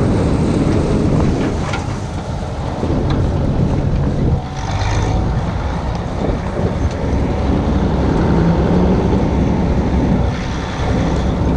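A diesel farm machine's engine running steadily, with wind buffeting the microphone.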